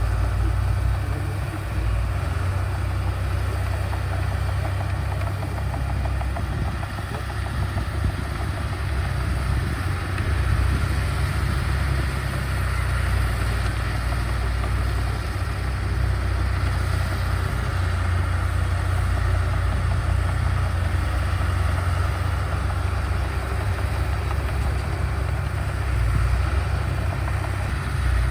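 Diesel engine of heavy earthmoving machinery running steadily with a deep low rumble.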